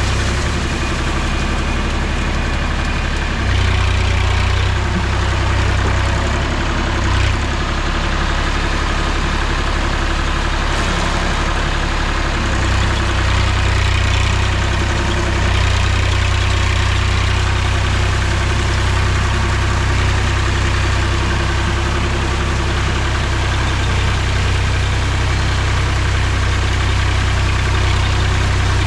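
Mahindra tractor's diesel engine running steadily, its low note shifting slightly about three and a half seconds in and again about twelve seconds in.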